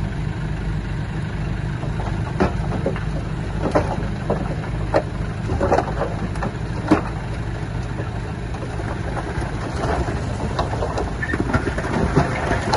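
Heavy diesel engine of earthmoving machinery running steadily at low speed, with scattered sharp clicks and knocks over it.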